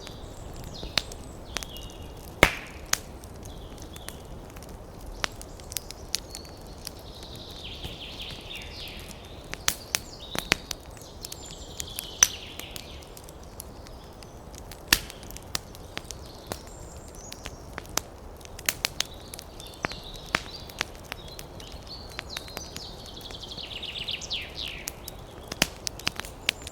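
Wood fire crackling, with irregular sharp pops over a soft steady hiss and short spells of higher hissing from the burning logs.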